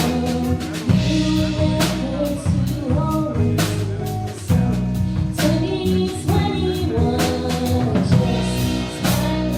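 A live rock band playing a song: a singer over a drum kit, with regular snare and cymbal hits.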